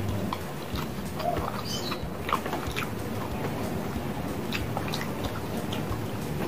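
A person chewing a mouthful of rice and sausage in balado sauce, with many short wet clicks and smacks of mouth and fingers.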